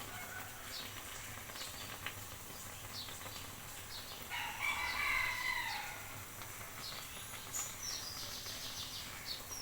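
A rooster crows once, about four seconds in, a pitched call lasting a little under two seconds and the loudest sound here, over a low steady background with faint ticks. Thin high bird calls follow near the end.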